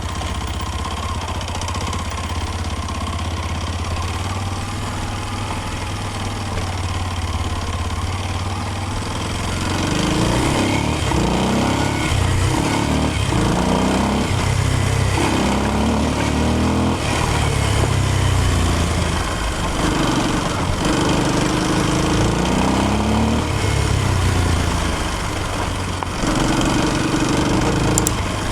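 Kawasaki KLX230's air-cooled single-cylinder engine running low and steady, then from about ten seconds in revving up and down again and again, its pitch climbing and dropping.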